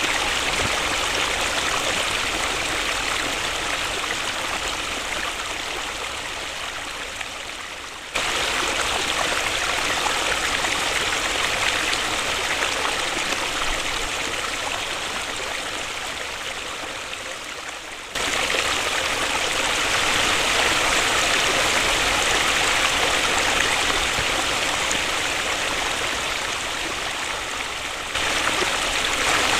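Waterfall rushing: a continuous, even hiss of falling water, strongest in the upper middle. Its loudness sinks slowly and then jumps back up abruptly three times, about every ten seconds.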